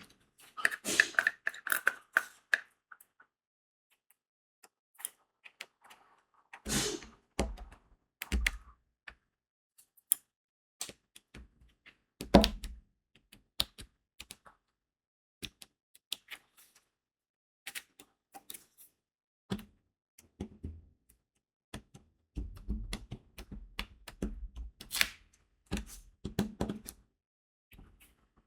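Irregular small clicks of a diamond-painting pen pressing crystal resin beads onto the adhesive canvas, spaced a second or less apart. There is a brief rattle of beads in the first two seconds, and several duller knocks come between the clicks.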